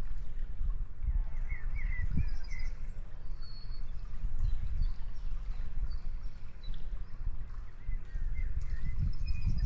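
Birds chirping in short scattered calls, a group of them about two seconds in and again near the end, over a steady low rumble of wind on the microphone.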